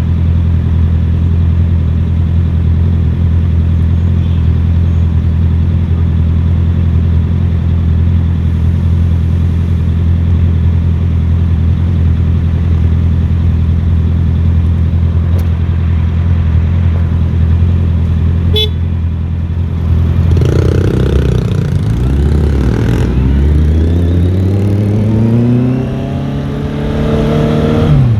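Motorcycle engine running at a steady pitch, then about two-thirds of the way through it revs up: the pitch climbs, dips once as a gear is changed, and climbs again.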